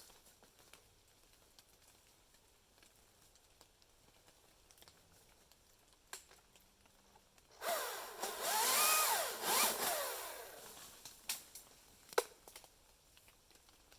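Chainsaw revs up and back down for about three seconds, starting about halfway through, followed by a few sharp knocks.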